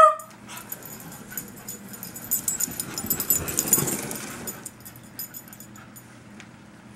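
A beagle's short, loud yip at the very start. Then a stretch of clattering and crackling noise that builds to a peak about three and a half to four seconds in and fades by about five seconds, as the dog chases a 1/32 slot car along the track.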